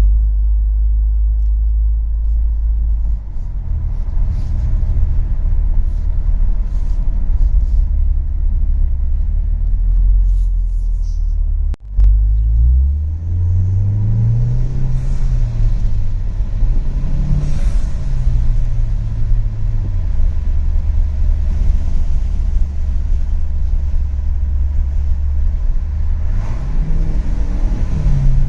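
2019 Mazda CX-5 four-cylinder engine heard from inside the cabin through a Corksport intake and exhaust. It holds a steady low drone while cruising. After an abrupt break about twelve seconds in, the engine note climbs under acceleration, drops at each gear change and climbs again, then settles back to a low drone before rising once more near the end.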